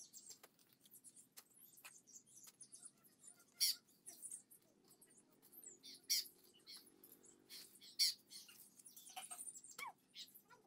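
Birds chirping: a few short, sharp calls a couple of seconds apart, over a faint steady background.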